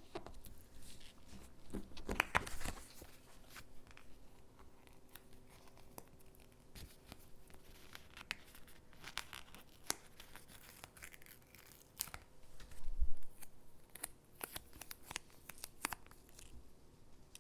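Stickers being peeled from their backing sheet and pressed onto gingerbread cutouts: scattered soft peels, rustles and clicks, denser about two seconds in, with a low thump a little past the middle.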